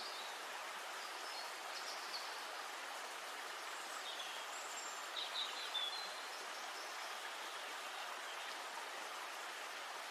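Steady hiss of the river's flowing water, with small birds giving short high chirps, a few of them bunched together about halfway through.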